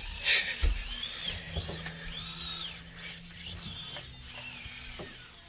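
Small electric motor and geartrain of a 1/24-scale SCX24 RC crawler whining, the pitch rising and falling several times as the throttle is worked, with a few low thumps near the start.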